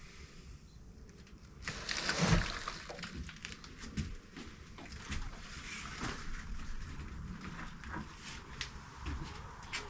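Rustling and light clicks and knocks from things being handled and moved about.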